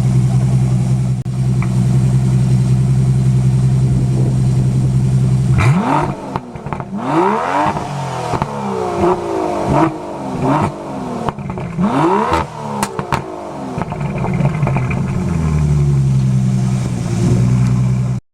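Aston Martin DBS Superleggera's 5.2-litre twin-turbo V12 idling steadily through its exhaust, then revved in a series of quick throttle blips that rise and fall, before it settles back to a steady idle.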